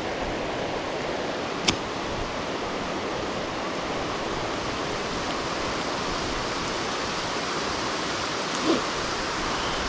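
Heavy rain pouring down in a steady hiss, with one sharp click a little under two seconds in.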